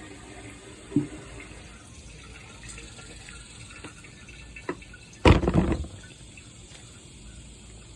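Toilet tank refilling with a steady run of water. A small click comes about a second in, and a loud clunk comes a little past five seconds.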